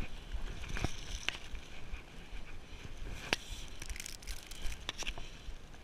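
Footsteps crunching and scraping on rough ground while climbing, with a few sharper cracks and steps, over a low rumble of wind on the microphone.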